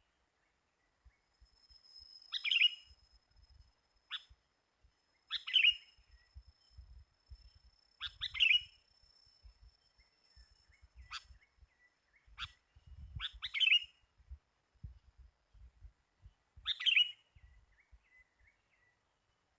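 Sooty-headed bulbul giving short bright calls, one about every three seconds, with a few sharper single chips in between. A faint, thin, steady high tone runs under the first two-thirds and stops about two-thirds of the way through.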